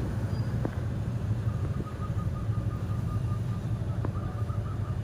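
Steady low rumble of road traffic at a railway level crossing. About a second and a half in, the crossing's warning alarm starts a rapid, even ding-ding at about four a second, signalling that a train is approaching.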